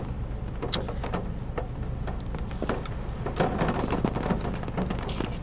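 Close-up chewing of a bite of a crispy fried spicy chicken sandwich: a string of small crunches and wet mouth clicks over a steady low rumble.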